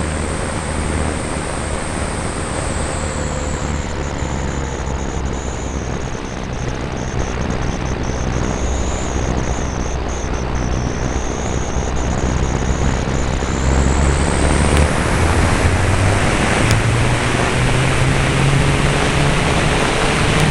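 Radio-controlled F3A aerobatic model airplane's motor and propeller running over a steady rush of noise, its high whine dropping in pitch about four seconds in and climbing back about two-thirds of the way through.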